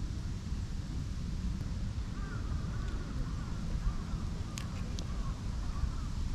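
A bird calling a quick run of short, wavy notes for a few seconds in the middle, over a steady low rumble. Two sharp clicks come close together about two-thirds of the way through.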